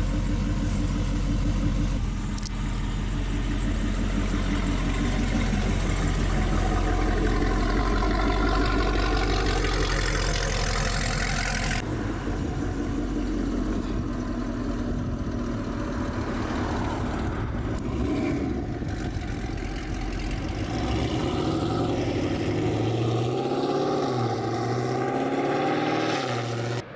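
Dodge Charger Scat Pack's 392 HEMI V8 through a CORSA full exhaust, driving off and accelerating, its note rising in pitch over several seconds. The sound changes abruptly about twelve seconds in, then the engine runs on at varying revs.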